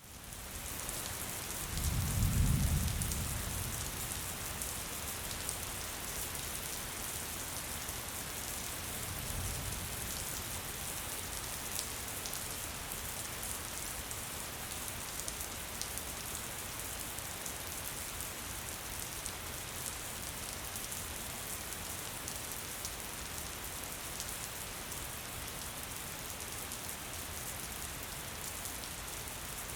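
Steady gentle rain falling as a dense, even patter. A low rumble swells about two seconds in, and a fainter one comes near ten seconds.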